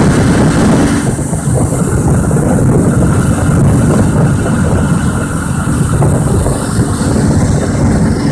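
Tour boat's engine running steadily with a low, even drone, mixed with the rush of water and wind past the hull.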